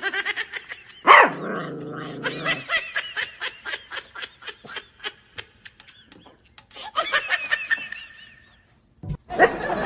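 A dog barking in a long run of short, evenly paced barks, with a louder call about a second in and a second flurry later, mixed with people laughing.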